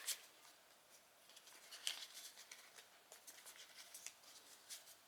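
Faint, scattered crinkling and rustling of origami paper being handled and refolded.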